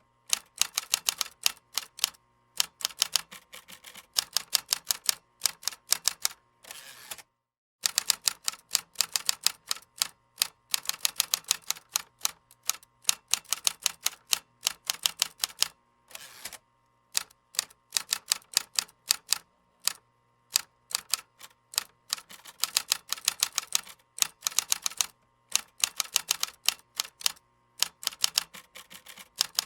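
Typing on a computer keyboard: rapid runs of key clicks in bursts of a few seconds, broken by short pauses. There is a brief dead silence about seven seconds in.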